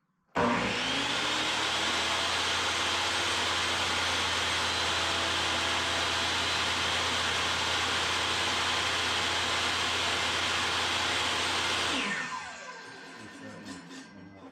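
Table saw switched on, its motor spinning up quickly and running steadily, then switched off about twelve seconds in and winding down with falling pitch.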